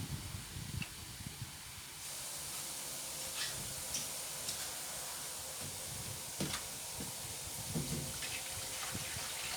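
Water running steadily, starting about two seconds in, with a few light knocks of handling.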